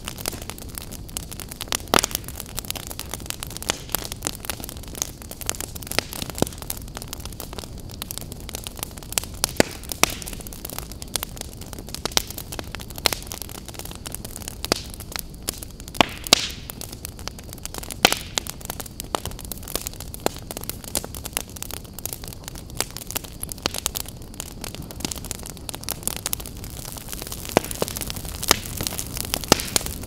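Campfire crackling: a steady hiss with frequent irregular sharp pops and snaps.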